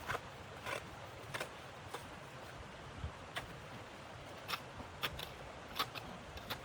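A series of short, crisp crunching or scraping sounds, about ten of them at uneven intervals of half a second to a second, over a steady low hiss.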